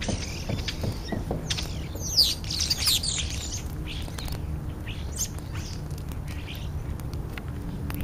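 European starlings calling at a feeding spot: scattered high chirps and squeaks, with a dense burst of sweeping, squealing calls about two seconds in. A steady low hum runs underneath.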